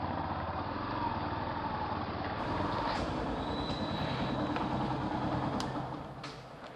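Motorcycle running along the road with engine rumble and road and wind noise. The noise fades down about six seconds in, with a few sharp clicks near the end.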